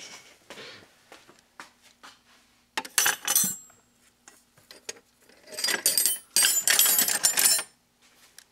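Metal hand tools and sockets clinking and rattling against each other, in a short burst about three seconds in and a longer one from about five and a half to seven and a half seconds in, with scattered light clicks between.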